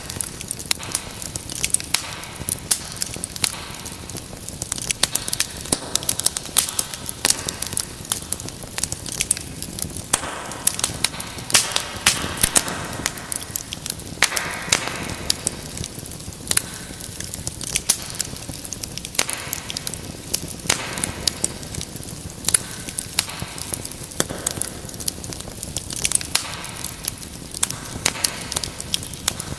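Wood fire crackling: many sharp pops and snaps at an irregular pace over a steady hiss, with a few brief swells of hissing.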